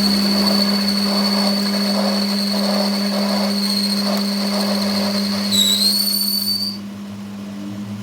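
Workshop machinery running: a steady low hum with a high-pitched whine over it. The whine wavers briefly and then stops near the end, while the hum continues.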